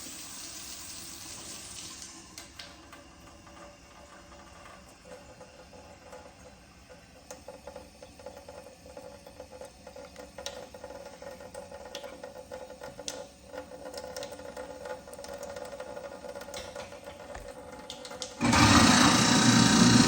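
A thin stream of hot tap water trickles into the sink drain, with a few light clicks. About 18 seconds in, the garbage disposal switches on and runs loudly, its motor grinding the cleaning packet.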